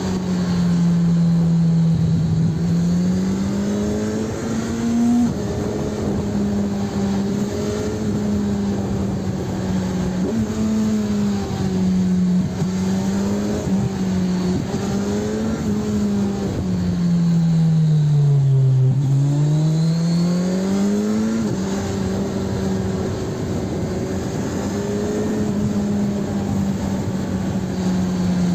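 Kawasaki Ninja 1000SX's inline-four engine and exhaust while riding, mostly holding a steady note with small shifts in pitch. About 17 s in the note falls as the bike slows, then it rises again as it accelerates. Road and wind noise run underneath.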